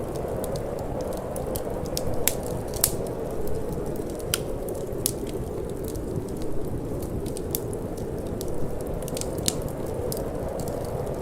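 Wood fire crackling, with sharp irregular pops and snaps, over a steady low rush of wind.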